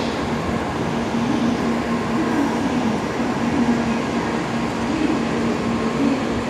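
Tokaido Shinkansen bullet train moving along the platform: a steady rolling rumble and running noise, with a low hum that swells and fades about once a second.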